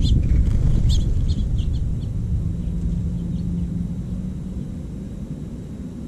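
Several short, high bird chirps in the first two seconds over a steady low rumble that slowly fades, with a faint low hum in the middle.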